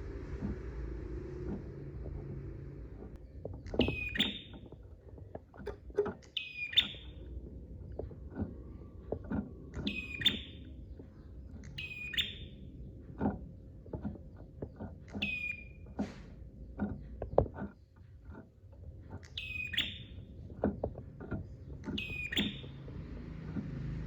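Prenjak (prinia) singing: about seven loud calls spaced a few seconds apart, each a quick run of very high ticks ending in a clear whistle, with short sharp chips in between. A low steady hum runs underneath.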